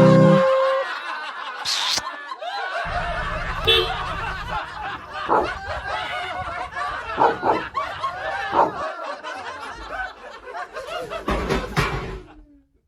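People laughing hard, in repeated bursts of snickering and chuckling.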